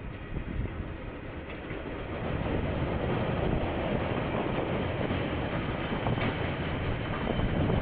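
Diesel locomotive hauling a container freight train past: the engine and the rolling wagons grow louder about two seconds in, then run on steadily with a faint clatter of wheels.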